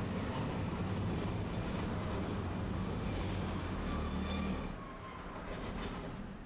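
Tosaden streetcar running on street track, with steady wheel rumble and motor hum and a faint high squeal from the wheels. About three quarters of the way through, the rumble drops away as the tram slows toward a stop.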